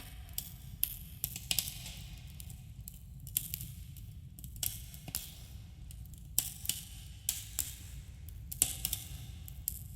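Campfire crackling, with irregular sharp pops and snaps over a steady low rumble and a subtle echo.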